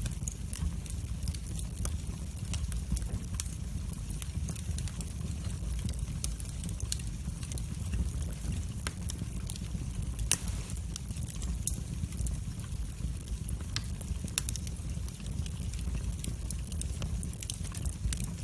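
Wood fire burning in a fireplace: a steady low rumble of the flames with frequent irregular pops and crackles, one pop sharper than the rest about ten seconds in.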